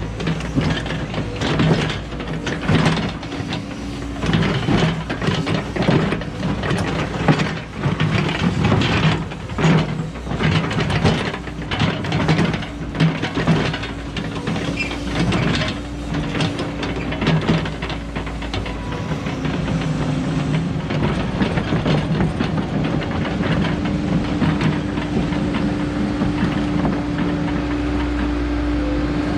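Cat 314E excavator working, its diesel engine running under load with frequent knocks and clatter through the first two-thirds. It then settles into a steadier drone, with a higher whine growing stronger near the end.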